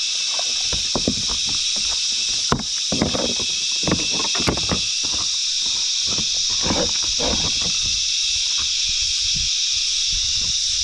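Cicadas buzzing in a steady, loud, high-pitched chorus, with irregular knocks and splashes close by.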